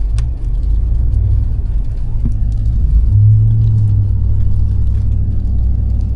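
Ram TRX's supercharged V8 running with a steady low drone, heard from inside the cab. The drone grows stronger about halfway through.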